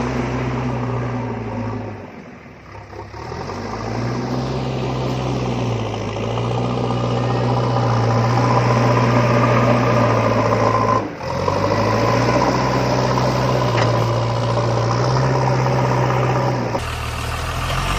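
An engine running steadily, with small step-like rises and falls in pitch as if revving slightly. It dips about two seconds in and cuts out for a moment about eleven seconds in.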